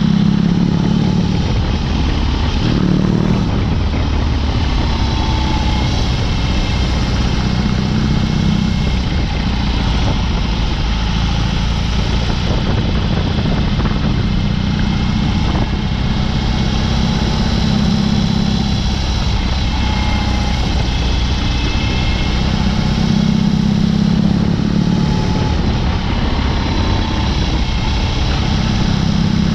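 BMW R18's 1.8-litre boxer twin running through a Dr. Jekill & Mr. Hyde exhaust while riding, its low note swelling and easing every few seconds as the throttle opens and closes.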